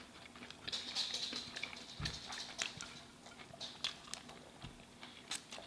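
Close chewing and crunching of crispy fried chicken, with scattered short clicks and mouth sounds.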